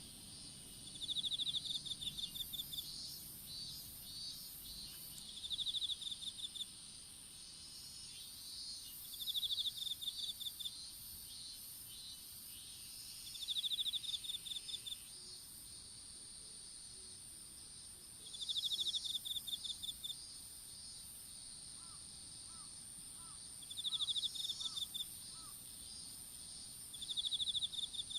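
Insects singing in a field. A continuous high-pitched trill runs steadily, and over it a louder pulsed chirping trill of about a second repeats every four or five seconds.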